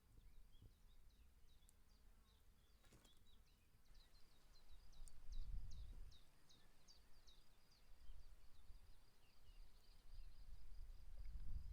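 Faint outdoor ambience: a bird calls a quick run of short, high, downward-sliding chirps, about three a second, over a low rumble of wind that swells twice.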